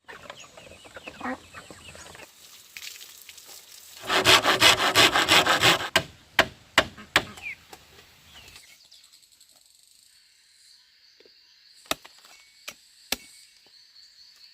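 Hand saw cutting through wood in a quick run of even strokes for about two seconds, followed by a few sharp knocks and, later, a few scattered taps.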